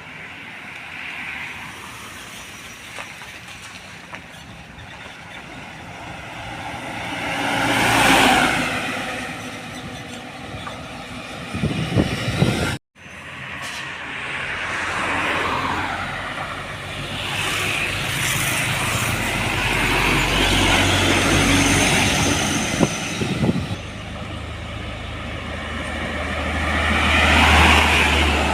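Trucks passing on a road: diesel engine and tyre noise swelling as each vehicle goes by and fading again, with a low engine hum growing loud near the end. The sound cuts off abruptly for an instant about 13 seconds in.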